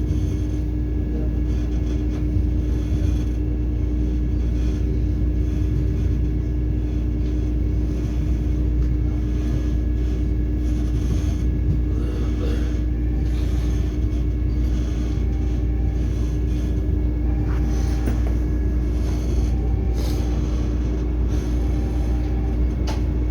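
Steady low rumble of a train with a constant hum, even in level throughout, with a few faint clicks near the end.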